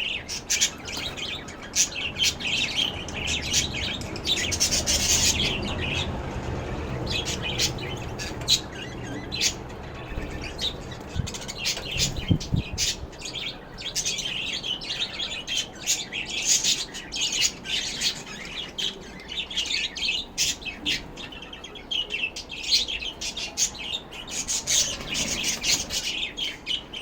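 Lovebirds chirping and chattering in a run of quick, sharp, high calls with short gaps between them. A low rumble comes in for a few seconds midway, with a couple of dull knocks.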